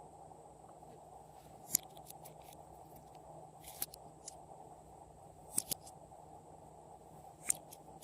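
Slime being worked by hand, giving sharp clicking pops every second or two with fainter ticks between, over a steady low hum.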